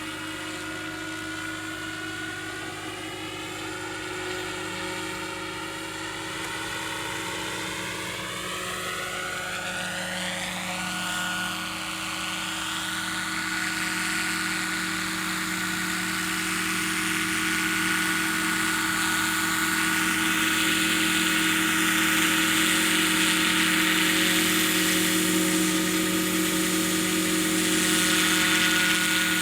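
Lockheed 286 helicopter in flight: a steady drone of rotor and drive with a high whine, growing gradually louder through the clip. In the first half a sweeping, phasing change in the tone comes and goes as the distance shifts.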